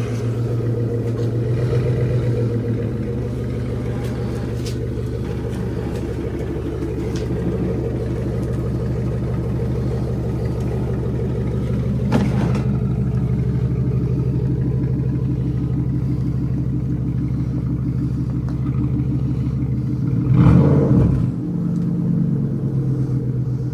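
Cadillac Northstar V8 with its mufflers deleted, running steadily with a deep, unmuffled exhaust note. The engine gives one short rev about 20 seconds in and then settles back.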